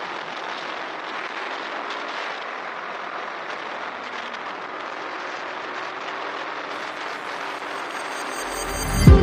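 Steady rushing noise of a motorcycle ride, wind and road, with no clear engine note. Music comes in with a loud hit near the end.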